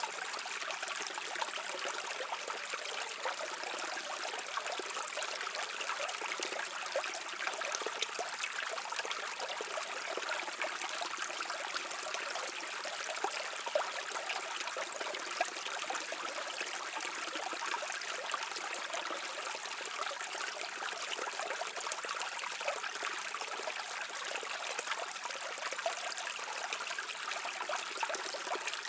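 A small stream running and trickling steadily, a continuous wash of fine splashes with no pauses.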